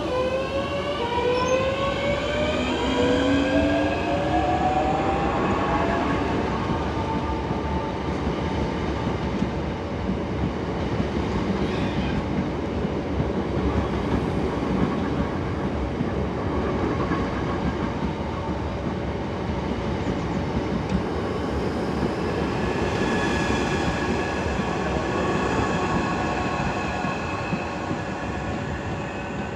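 Electric passenger train pulling away through the station, its traction motors whining up in pitch over the first several seconds. It then runs on with a steady rumble of wheels on rail, and a steady motor whine comes up again later.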